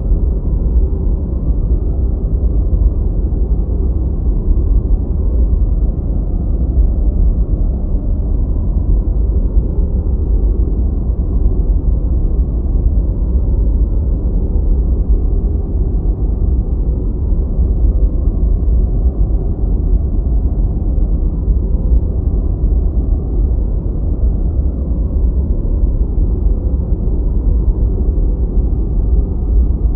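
Deep white noise: a steady, even noise weighted to the low end, with almost nothing in the highs and no change throughout.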